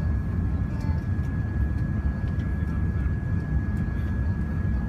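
Airbus A380 cabin noise heard from a passenger seat: a steady low rumble of engines and airflow, with a thin steady whine above it.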